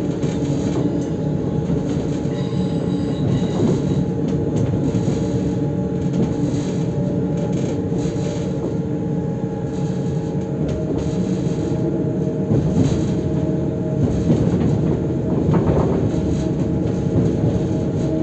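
Passenger train running along the track: a steady rumble with a constant hum and scattered short knocks from the wheels over the rails.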